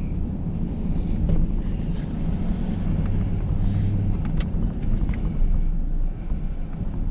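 A vehicle's engine running with a steady low hum and rumble, with a few light clicks and knocks between about one and five seconds in.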